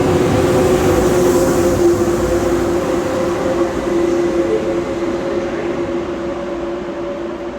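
High-speed electric train running through the station: rumbling rail noise with a steady two-note whine, slowly fading over the second half.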